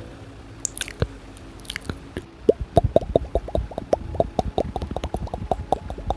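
Close-miked ASMR mouth sounds: a few wet smacks, then from about two and a half seconds in a quick run of wet pops, about five a second, each dropping in pitch like a water drop.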